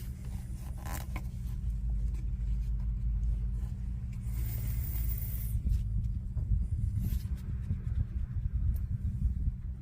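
A campfire burning: a steady low rumble with a few sharp crackles, and a brief hiss about four to five seconds in.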